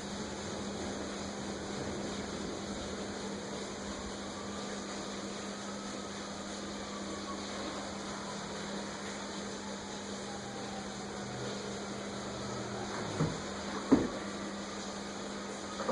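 Steady hiss of rain with a constant low hum, and two or three sharp knocks near the end.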